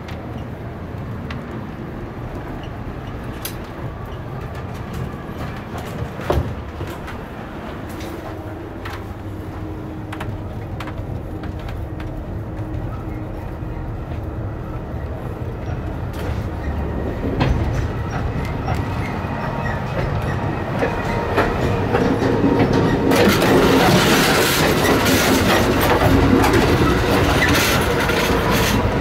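Running noise of an Amtrak Superliner sleeping car heard from its corridor while the train is moving: a steady low rumble with scattered clicks from the wheels on the track. It grows much louder about three quarters of the way through, then drops back near the end.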